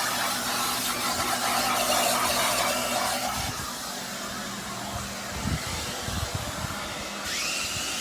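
Steady whooshing machine noise with a low hum, with a few dull low thumps in the middle; about seven seconds in, a whine rises and then holds.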